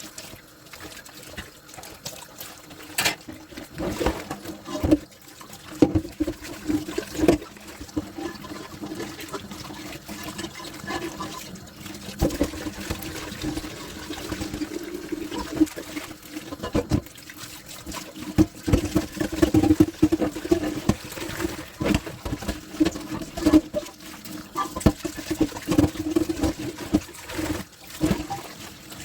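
Tap water running and splashing in a kitchen sink during dishwashing, with frequent sharp clinks and knocks of dishes and utensils.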